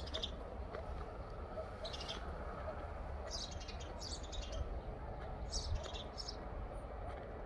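Birds chirping: short high calls every second or so, several in quick succession in the middle, over a low steady rumble.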